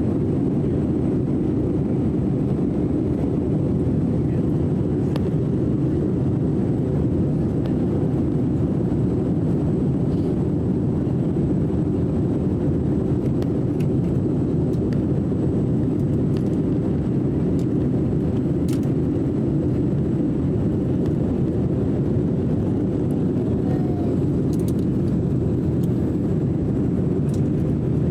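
Steady low rushing cabin noise of a jet airliner in flight, heard from inside the passenger cabin, with no change in level.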